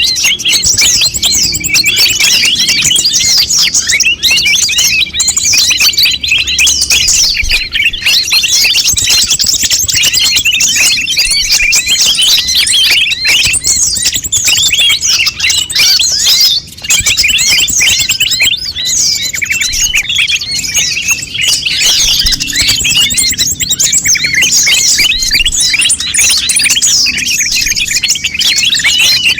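Konin birds chattering noisily: a dense, unbroken chorus of quick, high, overlapping chirps and twitters from several birds at once.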